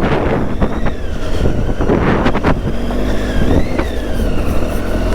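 Triumph Tiger 800's three-cylinder engine running as the bike rides a rough trail, its revs rising and falling, with a few knocks over the ground and wind on the microphone.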